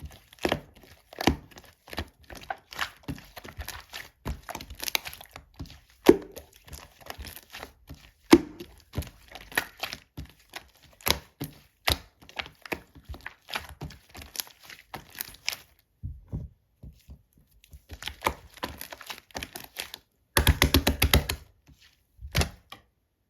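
Purple slime being squished, poked and pressed by hand, making irregular wet clicks and air-bubble pops. Near the end comes a quick run of dense popping.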